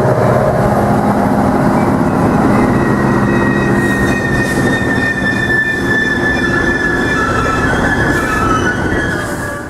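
A train passing close by with a steady heavy rumble. From about three seconds in, its wheels squeal on the rails in thin high tones that waver, and the sound starts to fade out at the very end.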